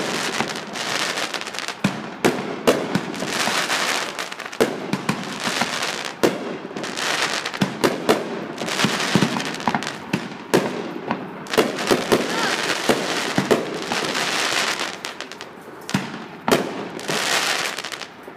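A fireworks display at close range: many sharp bangs and pops going off irregularly throughout, over stretches of steady hiss.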